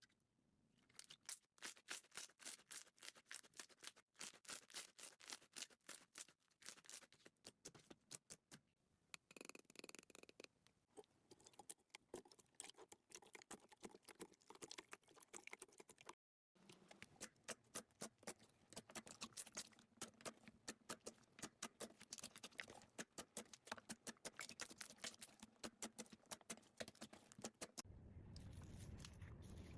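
Slime being squished and poked by hand: a faint, dense run of quick crackling clicks and pops. It breaks off briefly about 16 seconds in, and the texture changes near the end.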